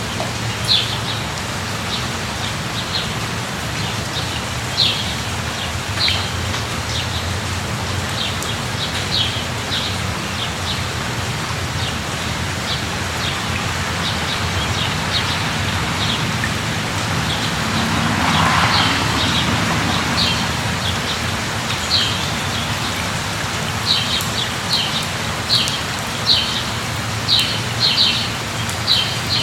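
Steady rain falling, an even hiss with short high-pitched ticks scattered through it that come thicker near the end. A soft swell of noise rises and fades a little past halfway.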